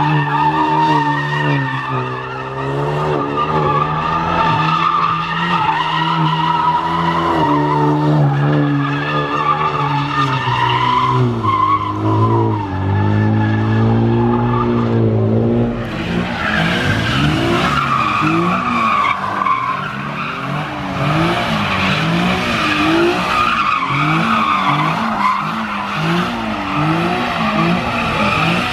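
A car's engine held at high revs while its tyres spin and squeal against the pavement. About halfway through, the revs begin rising and falling roughly once a second.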